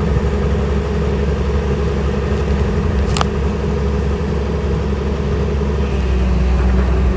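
Truck engine running steadily with a low rumble, with a single click about three seconds in.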